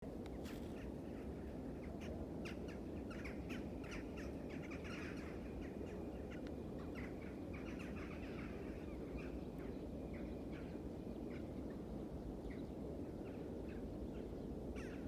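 Birds calling outdoors in many short, scattered chirps, over a steady low background rumble.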